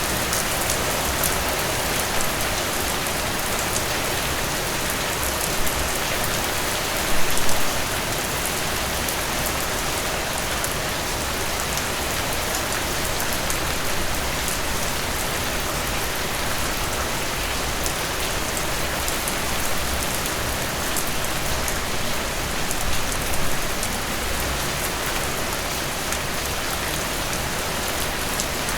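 Heavy rain falling steadily, a dense hiss with sharp drop patter on surfaces, briefly louder about seven seconds in.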